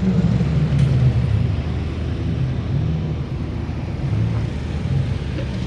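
Car engine running at low revs: a low, steady engine note that wavers slightly up and down.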